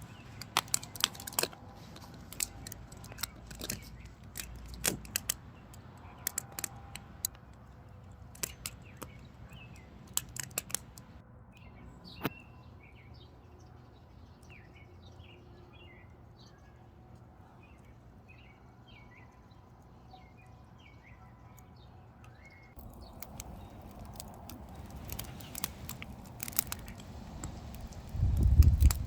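Burning firewood crackling with irregular sharp pops for about the first ten seconds, then a small bird chirping in a run of short, quick high notes. A loud low rumble comes in near the end.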